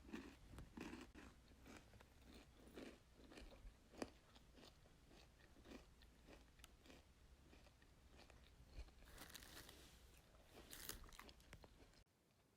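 Faint, irregular crunching and clicking of someone chewing food, with short pauses between bites.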